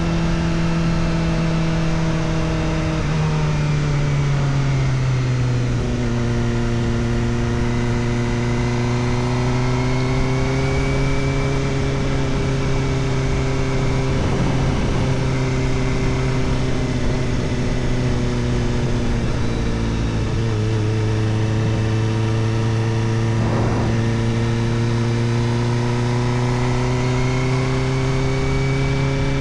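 Kawasaki Ninja ZX-4RR's inline-four engine through an Arrow Indy Race Evo titanium exhaust with the dB killer fitted, running steadily at moderate revs while riding. Its pitch drops in two steps in the first few seconds, holds, dips once about two-thirds of the way through and then climbs a little near the end.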